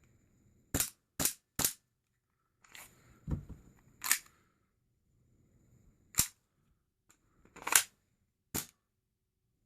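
WE-Tech Big Bird M&P 9 gas blowback airsoft pistol firing on CO2, seven single sharp shots. Three come in quick succession near the start, the rest one to two seconds apart, with a duller knock between them. Each trigger pull fires once, as the full-auto fix intends.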